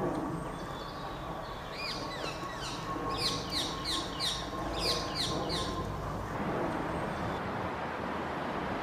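A small songbird chirping: a quick run of short, falling chirps from about two seconds in until about six seconds in, over a steady low background rumble.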